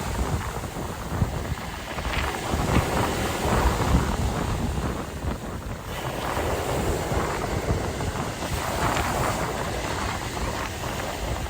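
Sea waves washing in and out, with wind buffeting the microphone in uneven gusts.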